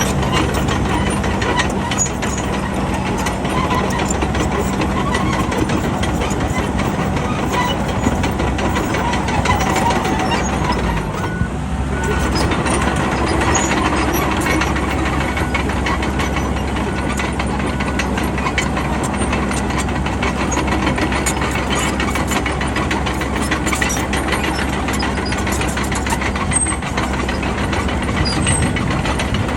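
Bulldozer's diesel engine running under load as it works, with a brief dip about eleven seconds in, after which the engine note changes.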